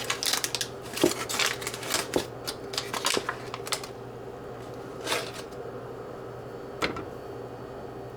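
A quick run of light clicks and rustles for about four seconds, then two single clicks, over a steady low hum.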